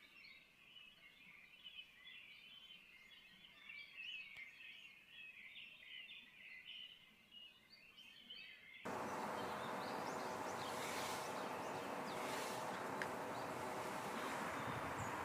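Many small birds chirping and twittering together for about the first nine seconds. Then the sound cuts suddenly to a louder steady hiss with a faint hum in it, which is the loudest part.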